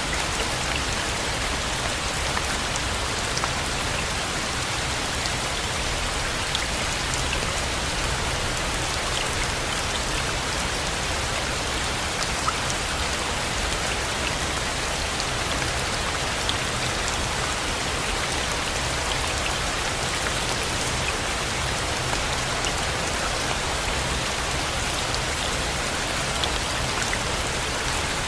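Steady rain falling: a dense, even patter with scattered sharper drop ticks.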